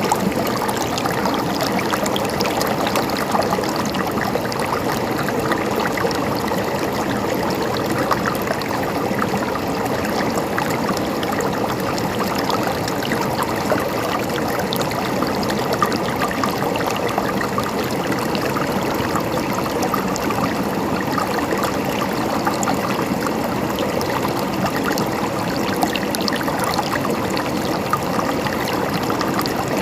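River water flowing and gurgling over rocks, a steady, unbroken rush with fine splashing.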